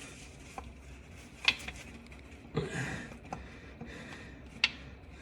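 A few sharp, light metallic clicks and taps of a bolt and hand tools being handled while a starter mounting bolt is threaded in by hand, the loudest about a second and a half in and again near the end, with a short rustle in the middle.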